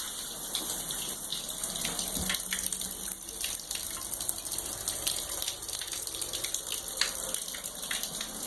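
Jacuzzi tub faucet running with the shower diverted off, water pouring steadily into the tub with small splashes.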